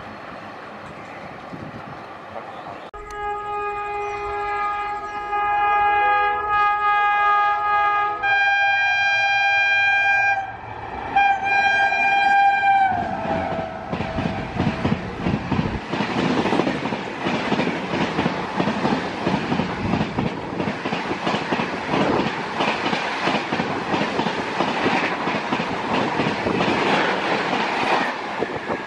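An express train passing at speed: its horn sounds in three long blasts, each a chord of several notes, and the last one drops in pitch as it goes by. Then the coaches rush past close by with a fast, continuous clatter of wheels over the rail joints.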